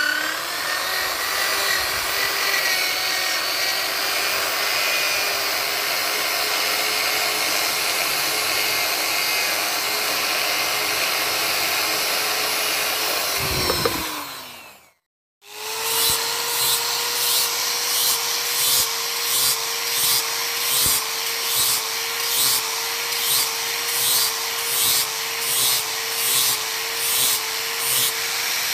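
Electric grinder running against a steel knife blade. Its motor winds down with a falling tone about 14 seconds in, and after a short break it runs again with rhythmic passes, about one surge a second.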